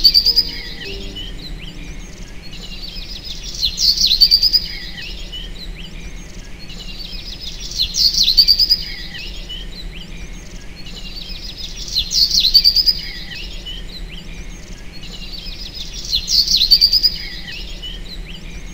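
Birdsong: the same short chirping phrase, a few quick notes ending in a trill, repeats five times at even spacing about every four seconds.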